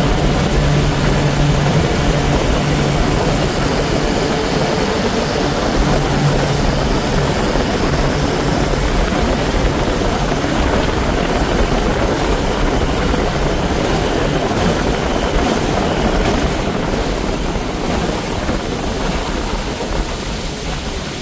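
Johnson 20 hp outboard motor running steadily under way, with a constant rushing hiss. The level eases slightly near the end.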